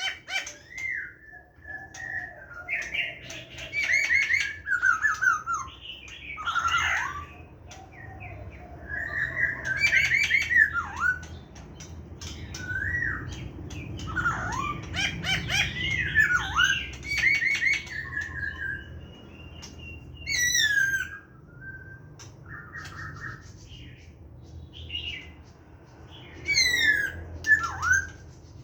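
Laughingthrush singing its natural wild-type song: a run of loud, varied whistled phrases gliding up and down in pitch, with quick falling trills twice in the second half.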